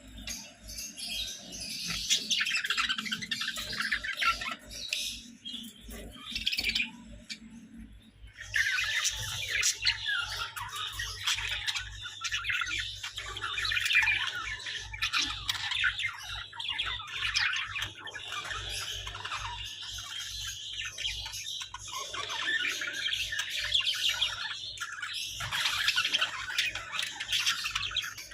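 Hagoromo budgerigars chattering and chirping almost without a break, with squawks mixed in and a short lull about eight seconds in.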